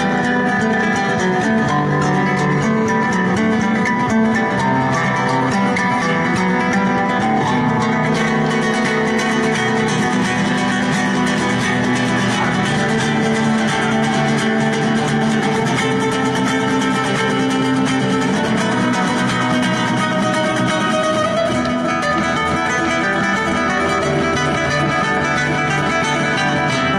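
Acoustic guitar played solo in a fast, dense flamenco style, with rapid picked runs over strummed chords.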